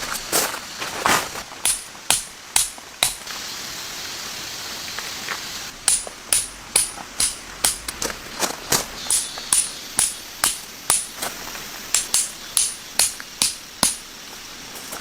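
A run of sharp knocks, like hammer strikes, struck at about three a second, with a quieter stretch in the middle before the strikes resume.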